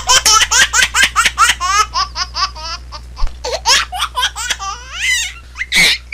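Laughter sound effect: high-pitched laughter in quick pulses, several a second, thinning out near the end with one last loud burst.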